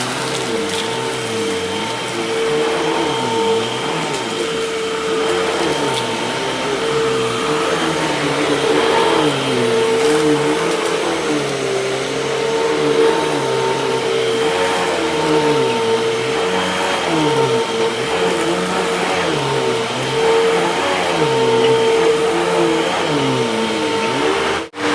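Freshly refurbished Hoover vacuum cleaner running, a steady motor whine with a lower tone wavering up and down as it is worked. The sound cuts out for a moment just before the end.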